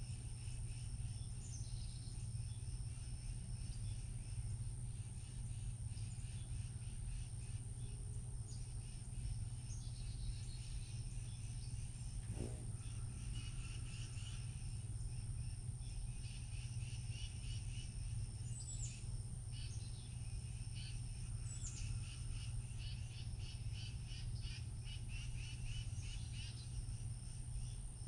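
Outdoor daytime ambience: a steady high-pitched insect drone, with scattered short bird chirps and a few quick falling calls, over a steady low rumble.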